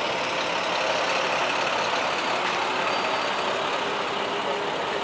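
Straight truck's engine running steadily.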